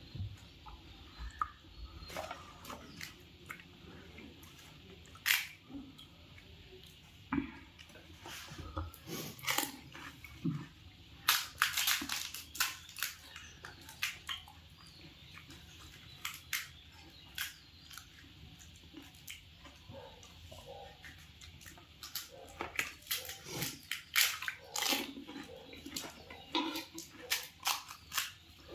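Close-up chewing and crunching of pani puri, the crisp hollow shells cracking between the teeth in spells of quick sharp crunches.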